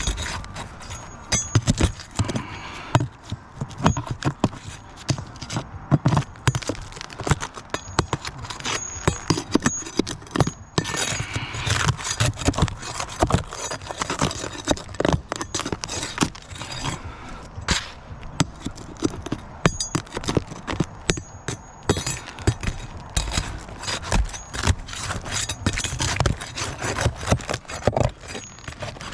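Metal roofing tool scraping and knocking against shingles and roofing nails as the shingles are pried up: a long, irregular run of sharp clicks, clinks and scrapes.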